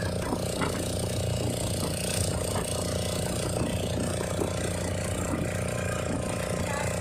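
Boat engine running at a steady pitch, a constant droning hum.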